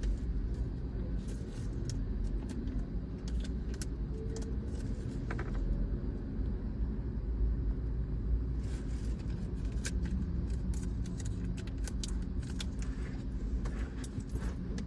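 Car wash: a steady low rumble with scattered clusters of short, sharp clicks and ticks.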